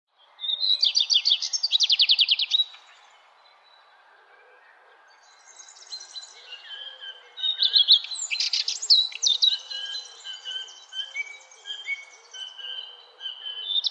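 Birds singing outdoors: a fast, loud trill of high notes for about two seconds at the start, then after a short lull a mix of chirps and whistled calls from several birds.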